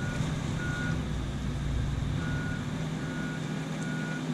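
A John Deere 135 excavator's diesel engine running, with its travel alarm beeping at a single pitch, about one short beep a second, pausing once between the first and second beeps.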